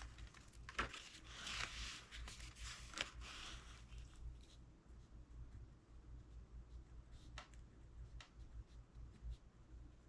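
Book page being turned and handled: a soft paper rustle with small clicks in the first few seconds, then a few isolated light ticks over a low steady hum.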